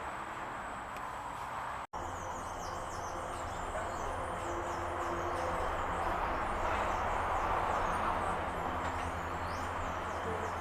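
Birds chirping: many quick, high, falling chirps in rapid succession over a steady background noise with a low hum. The sound cuts out for an instant about two seconds in, after which the chirping starts.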